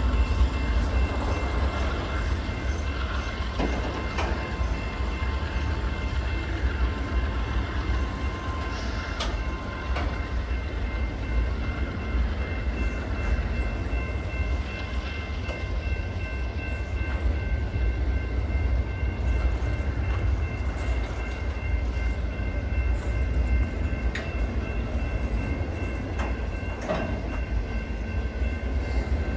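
Freight train of autorack cars rolling steadily past: a continuous deep rumble of steel wheels on the rail, with steady high-pitched tones running over it and a few sharp clanks.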